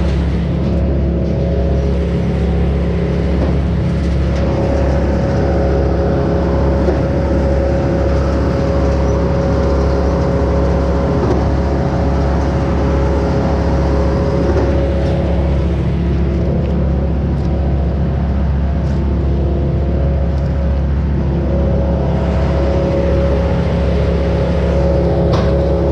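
An engine running steadily at a constant speed over a deep rumble.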